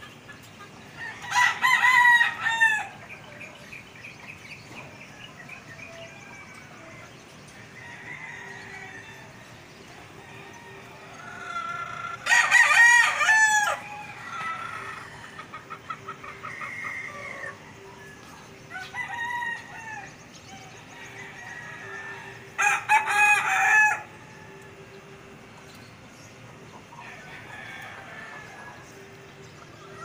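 Birds calling: three loud, long calls about ten seconds apart, with fainter calls in between.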